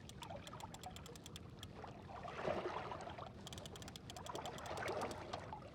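Fishing reel clicking rapidly as line is reeled in on a hooked fish, with light water splashing swelling twice.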